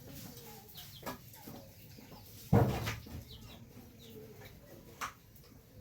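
Domestic chickens clucking softly. A single loud knock comes about two and a half seconds in, and lighter clicks come about a second in and near the end.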